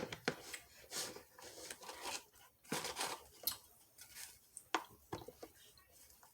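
Close-miked crunching and crackling in irregular sharp bursts, from food being handled and eaten.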